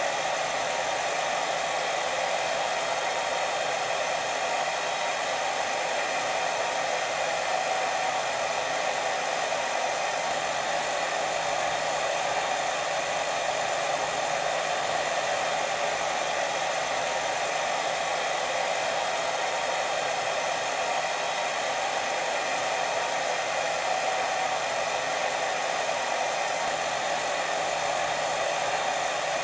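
Steady white noise for sleep: an even, unbroken hiss that does not change.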